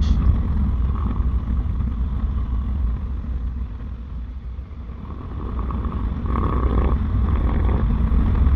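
Harley-Davidson motorcycle running at road speed: a steady low engine rumble with wind noise, which eases off about a third of the way through and builds back up in the second half.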